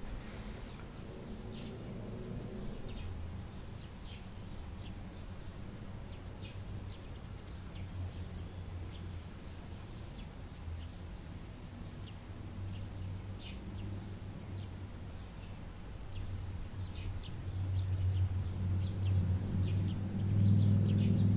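Short, scattered bird chirps, single notes and brief runs, heard over a steady low motor hum that grows louder over the last few seconds.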